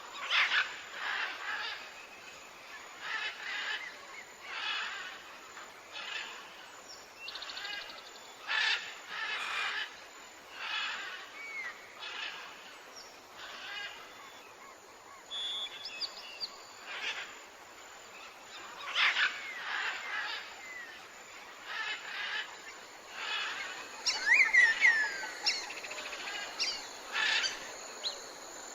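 Wild birds calling in a morning chorus. One pulsing call repeats every second or two. Short sliding chirps join it, and they grow busier near the end.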